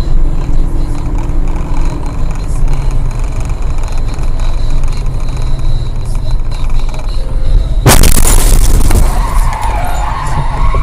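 Steady low road and engine rumble of a moving car, then a sudden loud bang about eight seconds in, like a collision impact, followed by a noisy wash.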